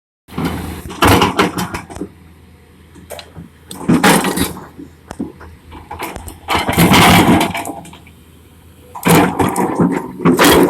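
Excavator's diesel engine running steadily under four loud, noisy bursts of clearing work, about one, four, seven and ten seconds in, each lasting one to two seconds.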